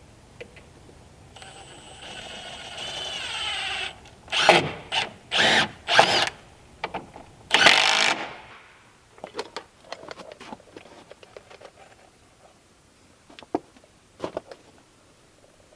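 A power drill runs steadily for a couple of seconds, its pitch rising slightly. It then gives four or five loud short bursts, as in driving screws, followed by a few light clicks and knocks.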